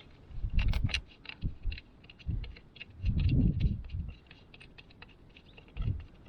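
Irregular small metallic clicks and taps of hand tools and bolts while the outboard motor's lower unit is being bolted back together after an impeller change. Several low rumbles of wind buffeting the microphone, the loudest about a second in and again around three to four seconds in.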